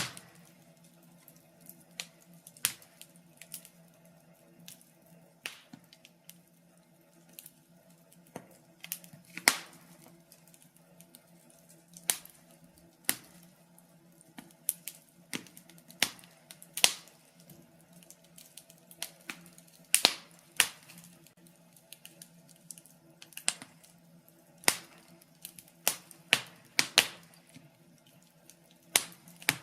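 Logs burning in a fireplace, crackling with irregular sharp pops and snaps of varying loudness over a faint steady low background.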